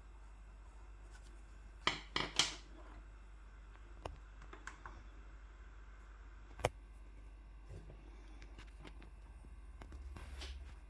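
Small sharp clicks and taps from drawing materials being handled on a desk: three in quick succession about two seconds in, a single louder click near seven seconds, and a soft rubbing near the end.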